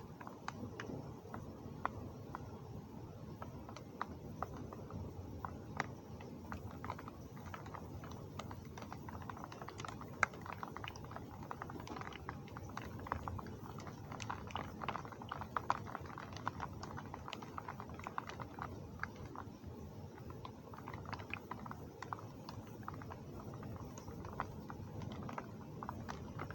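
Heavy rain, with dense irregular drips and drops ticking on a hard surface over a steady low rush.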